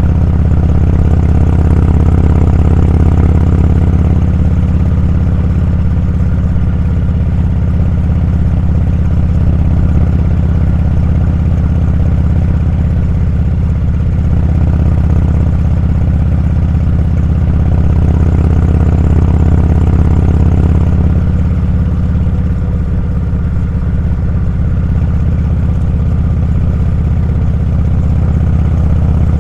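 Motorcycle engine running at a steady cruise on the road, heard from the bike, with only slight swells in loudness.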